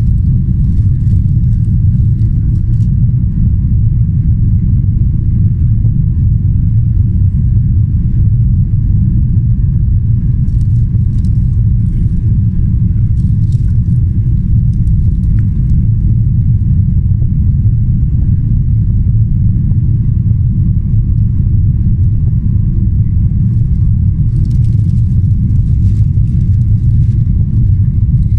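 Steady low rumble of a Boeing 777-300ER's GE90 engines and airflow, heard inside the cabin in flight, with faint intermittent rattling.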